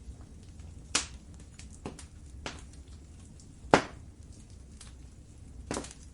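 Wood fire crackling in a fireplace: a low steady rumble with several sharp pops, the loudest a little past halfway.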